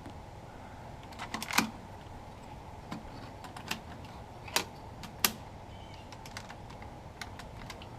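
Irregular sharp clicks and knocks of a camera being handled and set down on an air conditioner's disconnect box, the loudest about a second and a half in and several more up to about five seconds in, over a steady low background hum.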